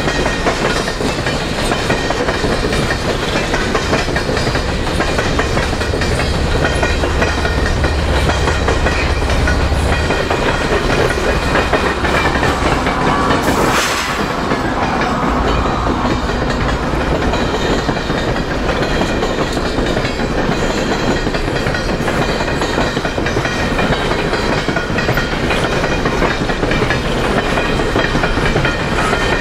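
Freight train of empty steel coal cars rolling past close by: steady wheel clatter and rumble over the rails, changing abruptly about halfway through.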